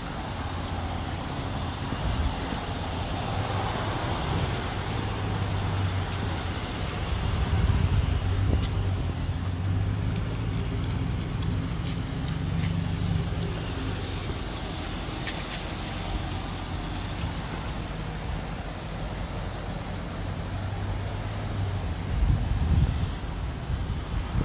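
Road traffic: vehicle engines rumbling steadily, swelling as vehicles pass by.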